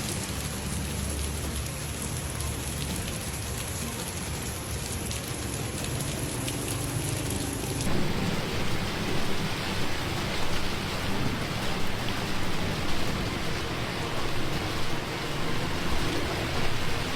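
Heavy rain falling, a steady hiss. About eight seconds in it changes abruptly to a louder, uneven noise.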